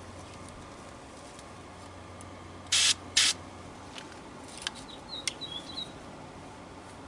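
Two short hissing bursts from an aerosol can of clear insulating varnish, about half a second apart, sprayed onto a loose shaded-pole coil of a box fan motor to stiffen it and stop its buzz.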